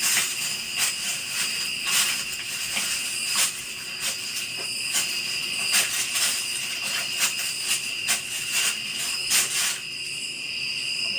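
Steady, high-pitched chirring of night insects, with irregular short crunches and clicks over it.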